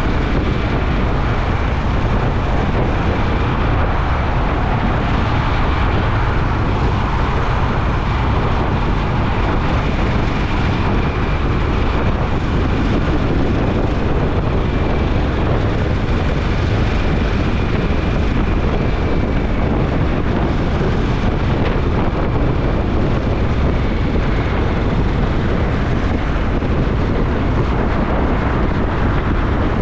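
Motorcycle cruising at a steady speed: steady wind rush on the camera's microphone mixed with the engine running evenly.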